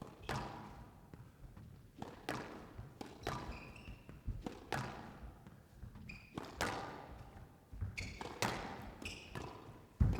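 Squash rally: the ball struck by racket strings and smacking off the court walls, about once a second, each hit ringing briefly in the court. Short high squeaks of court shoes on the floor come between the hits, mostly in the second half.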